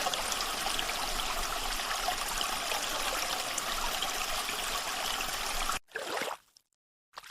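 Steady rush of running water, like a stream, that cuts off abruptly near the end, followed by a short faint burst of the same noise.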